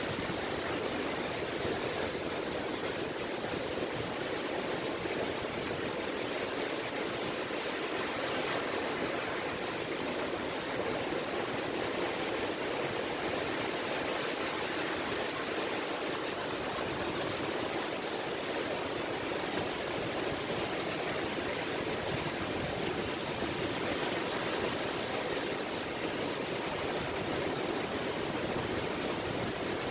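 Gentle sea waves lapping at a beach, a steady wash of water with no distinct breakers.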